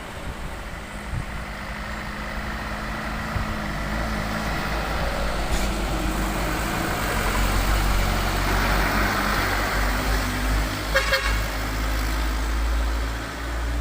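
Heavy truck's diesel engine labouring as it draws closer, a steady low rumble that grows louder over the first eight seconds, with a brief sharper sound about eleven seconds in.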